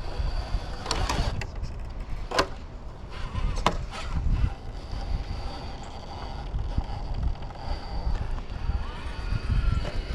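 Electric RC rock crawler working over rock: a faint motor whine that wavers in pitch, with three sharp knocks of the truck on the rock in the first four seconds and a low wind rumble on the microphone.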